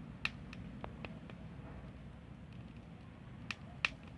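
Campfire crackling over a low steady rumble of burning, with a few sharp pops, the loudest about a quarter second in and again near the end.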